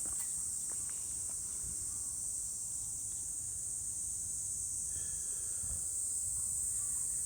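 Cicadas droning steadily in a continuous high-pitched summer chorus.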